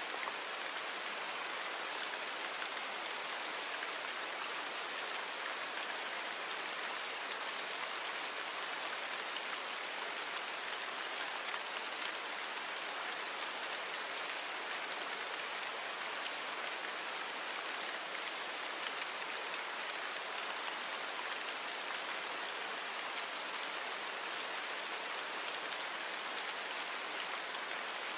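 Steady rain falling, a continuous even hiss of many fine drops with no let-up or change in strength.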